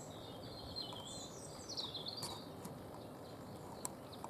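A small songbird singing one high, warbling phrase of about two seconds over steady outdoor background noise, with a faint click near the end.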